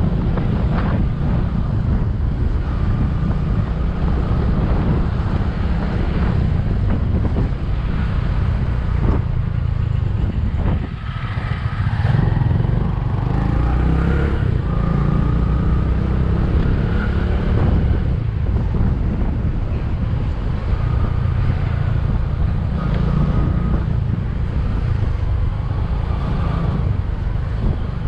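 Bajaj V15 motorcycle's 150 cc single-cylinder engine running as the bike is ridden, a steady low rumble that dips briefly about eleven seconds in.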